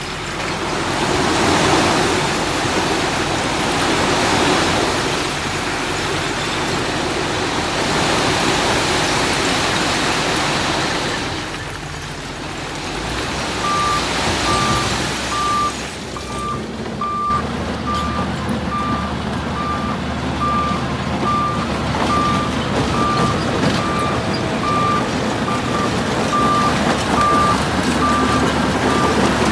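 Heavy earthmoving machinery's diesel engine running under load, with a reverse alarm starting about halfway through and beeping at a regular pace until the end.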